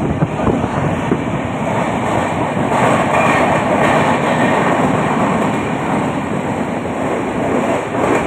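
Train running on the rails: a steady, loud rumble and rattle of the moving cars.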